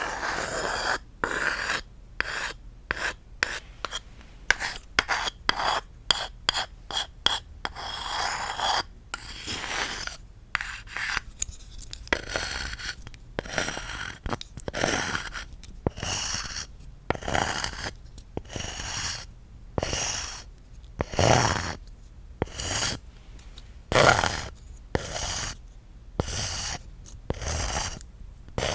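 Tapping and scratching on wooden objects in a quick, irregular run of taps and short scrapes, some strokes drawn out into brief rubs.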